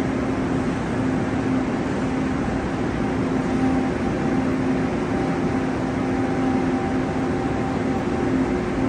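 Steady drone of a running train: an even rumble with a low hum that wavers slightly and a fainter higher whine above it.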